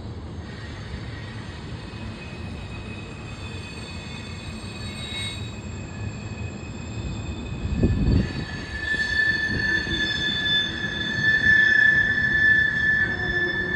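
Freight cars of a CSX mixed freight train rolling past with a steady rumble and high-pitched wheel squeal, which grows louder just past the middle. A short low thud comes a little over halfway through.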